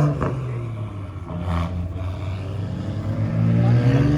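Car engine revving: the revs drop away at the start and the engine runs low for a couple of seconds, then the pitch climbs again as it revs up near the end.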